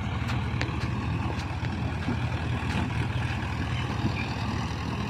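Mahindra 585 DI Plus tractor's diesel engine running steadily with a loaded trolley hitched behind, a few faint clicks over it.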